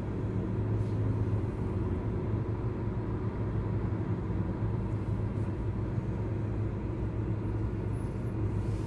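Steady low hum inside a parked car's cabin.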